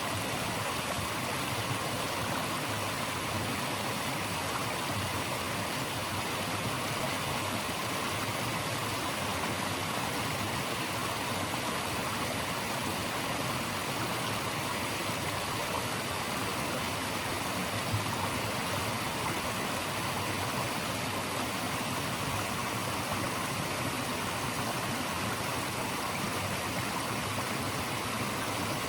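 Flowing stream of water rushing steadily, an even hiss without breaks.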